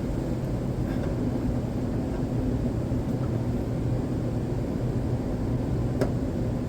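Steady droning hum of a running furnace, with one sharp click about six seconds in.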